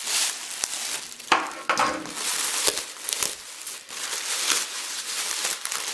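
Packaging crinkling and rustling in irregular bursts as a parcel is cut open and its wrapping pulled apart.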